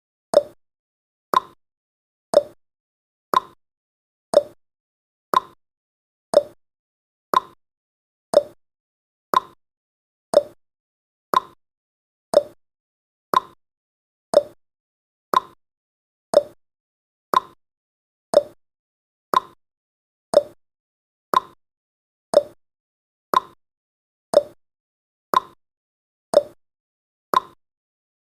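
Countdown timer sound effect: a short, sharp click once a second, evenly spaced and steady, marking each second counted down.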